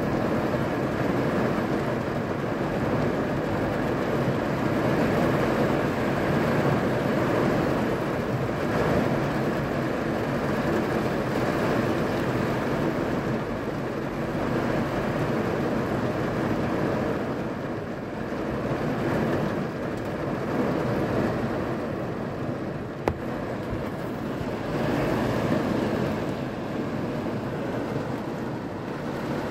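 Rain falling on a car's roof and windows, heard from inside the car: a steady, dense patter that hardly rises or falls, with one sharp tick about 23 seconds in.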